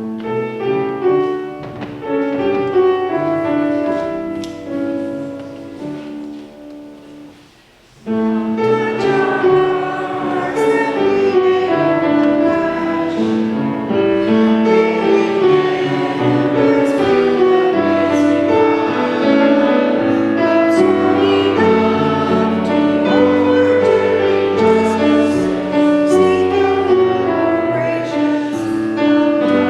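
A short sung blessing: voices singing a hymn-like song with piano accompaniment. A first phrase dies away about eight seconds in, then the music comes back fuller and louder.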